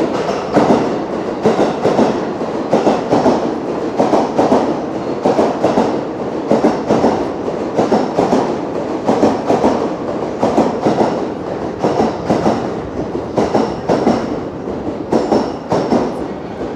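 JR East E233-3000 and E231-1000 series electric multiple unit cars rolling past at a station platform, their wheels clattering in a fast, irregular run of knocks over the rail joints and points.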